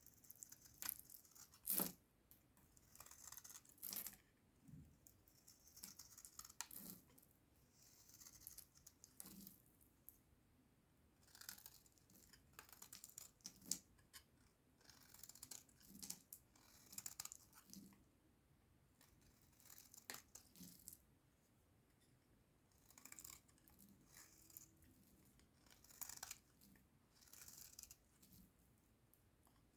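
Dried soap crunching and crackling under handling, in short crisp strokes about every one to two seconds.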